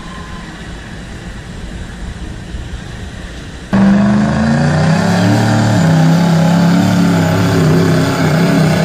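A diesel engine rumbles low at first. Then, a little over a third of the way in, a loud diesel engine at high revs comes in suddenly and holds, its pitch shifting up and down as it works under load, as in a truck or tractor pull.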